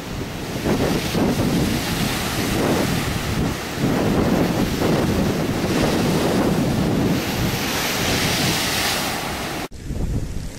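Storm waves breaking and surging on a shore, with strong wind buffeting the microphone in a heavy low rumble. Near the end the sound cuts abruptly to a duller wind rumble with the hiss gone.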